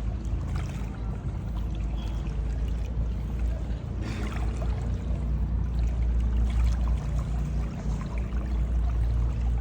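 Water splashing and trickling around a paddled river boat, over a steady low rumble.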